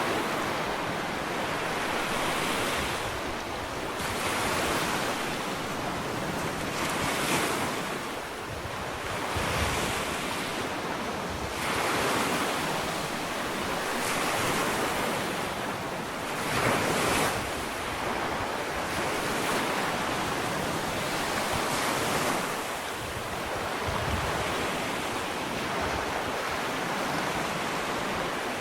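Ocean waves breaking and washing up a sandy beach, in swells every few seconds over a constant hiss of surf.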